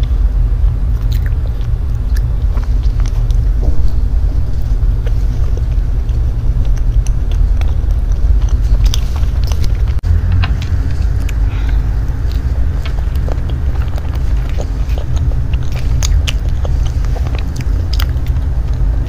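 Close-miked eating of matcha mousse cake: soft chewing and mouth sounds, with scattered small clicks of a metal fork against the cake and its clear plate, over a steady low rumble.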